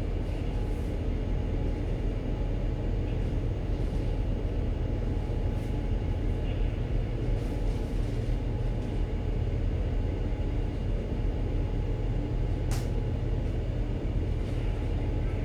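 Steady low rumble and hum of a ship's machinery, with a faint click about thirteen seconds in.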